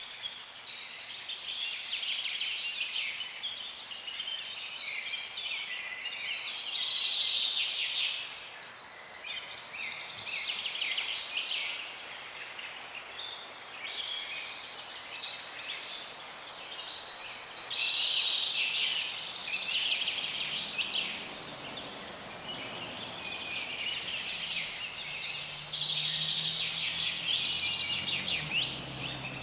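Many small birds chirping and singing together, a dense chorus of quick high notes and trills that rise and fall in loudness every few seconds. A faint low hum comes in near the end.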